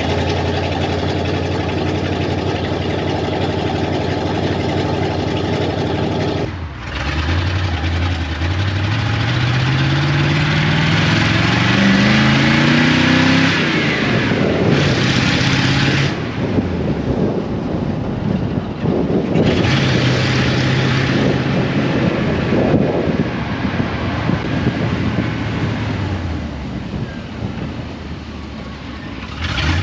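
1978 Chevy K10 pickup's engine as the truck is driven: steady at first, a brief dip about a third of the way in, then the pitch climbs steadily as it accelerates, drops, and later settles and falls away as the truck slows. Road and wind noise run underneath.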